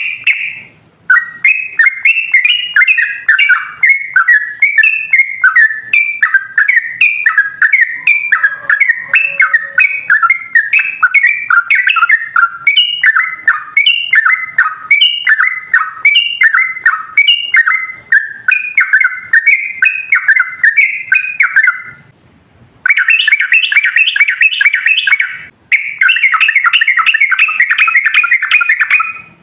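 Yellow-vented bulbul (trucukan) in full song: long runs of quick, bubbly warbled phrases. After a brief pause late on, it switches to faster, denser chattering runs.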